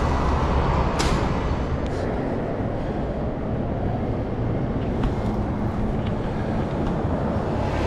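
Steady street traffic noise with a low rumble, heard from a moving bicycle, with a couple of faint clicks.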